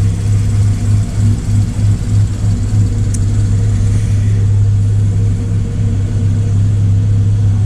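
Car engine running steadily with a constant low hum. A brief high tick comes about three seconds in.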